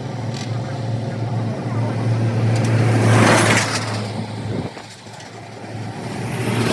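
Road traffic passing: a vehicle swells up and fades about three seconds in, and another approaches near the end. Under it a steady engine hum runs and cuts off suddenly about four and a half seconds in.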